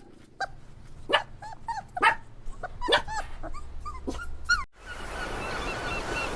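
A dog gives a run of short, high yips and whimpers, a few of them louder. About four and a half seconds in, the sound cuts abruptly to a hissy outdoor background with quick, faint repeated chirps.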